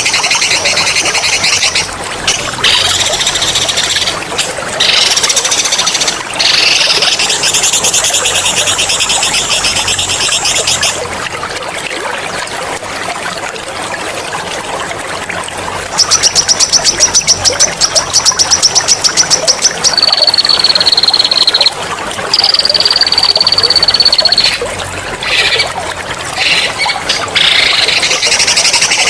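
Songbird song in long, rapid rolling trills ('ngerol'), loud and sharp, with a fast pulsing trill and a few long steady high whistles midway, over a steady trickle of running water.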